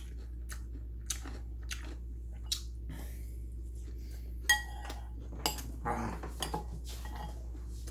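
Eating utensils clinking and tapping against dishes in a scattered series of small clicks. One louder ringing clink comes about four and a half seconds in, over a steady low hum.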